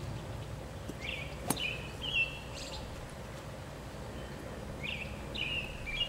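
A songbird repeating a short phrase of a few chirps about every three seconds over a steady outdoor hush, with one sharp click about a second and a half in.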